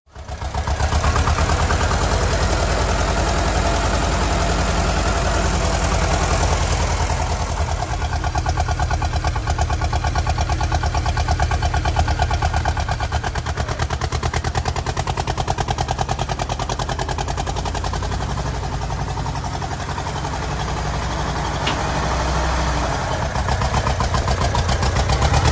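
1958 Massey Ferguson 35 tractor's petrol/TVO engine running steadily with an even firing beat, easing slightly about three-quarters of the way through and picking up again near the end.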